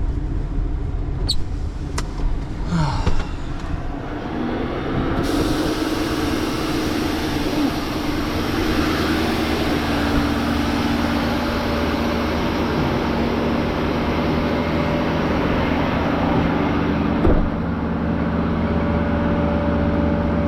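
Tow truck engine running with a few clicks at first; about four to five seconds in a steady, even hum sets in and holds.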